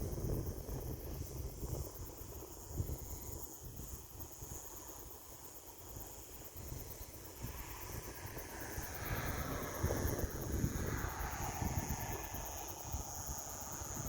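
Insects trilling steadily in the background, with gusts of wind on the microphone. From about halfway, a distant engine swells, passes with a slowly falling pitch, and fades.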